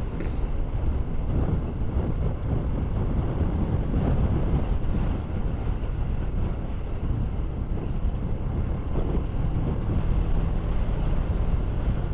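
Wind rushing and buffeting over the microphone of a moving motorcycle, with the KTM 390 Duke's single-cylinder engine running steadily underneath.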